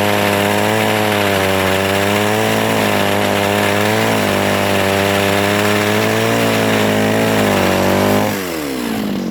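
Mini chainsaw running flat out, its pitch wavering slightly now and then. About eight seconds in it is let off and the pitch falls quickly to a lower, steady running note.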